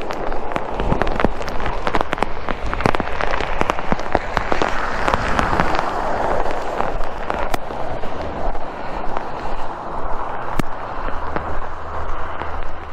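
Rain and wind buffeting the microphone, with many sharp crackling taps and a low rumble throughout. A rushing hiss of water swells for a few seconds about a third of the way in and again near the end, as a car drives through the floodwater on the road.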